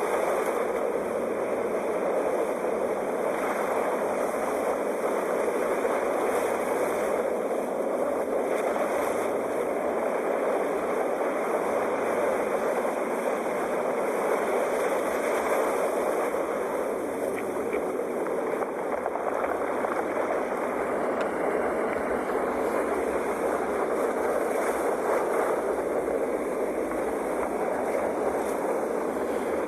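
Sea waves on a shore: a steady rushing surf that swells and eases gently every few seconds.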